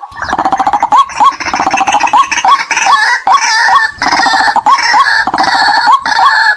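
White-breasted waterhen calling: a continuous bout of rapid, croaking grunts with a hooked 'kwak' note repeated about three times a second over it.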